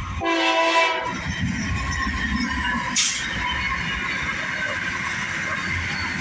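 Diesel freight locomotive's air horn sounding one short blast of about a second, followed by the freight train rolling past with steady wheel and rail noise. A sharp clank about three seconds in.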